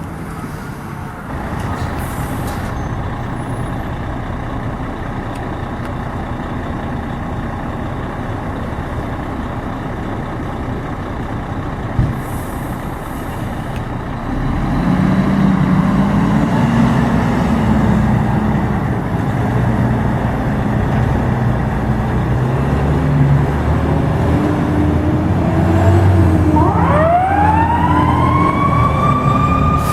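Fire truck engine running, growing louder about halfway through. Near the end a siren starts, rising steeply in pitch and then holding high.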